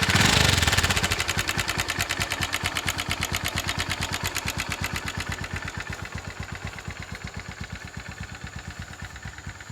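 Honda CB Twister 110 single-cylinder four-stroke engine idling with a rhythmic clatter from the valve train, which the owner put down to loose tappets. It runs a little faster and louder at first, then settles into an even beat of about a dozen pulses a second that slowly grows fainter.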